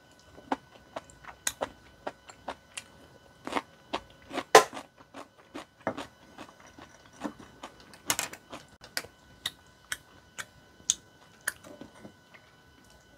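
Close-miked chewing of tteokbokki rice cakes: a run of sharp, wet mouth clicks and smacks, several a second, loudest about four and a half seconds in.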